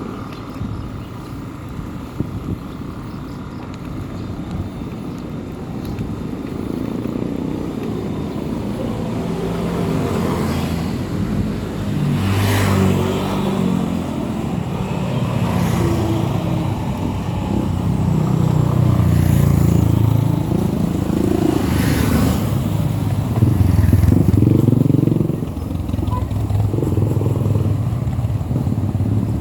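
Motorcycle engine running under way, its pitch rising and falling as it speeds up and slows, over a continuous low rumble.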